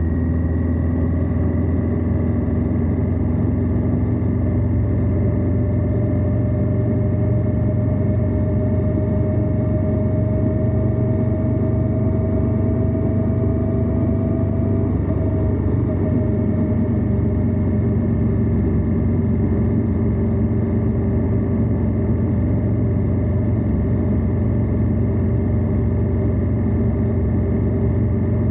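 Indian Scout V-twin motorcycle engine running steadily at cruise, with road and wind noise. A faint whine rises slowly in pitch through the first half, then drops about halfway through.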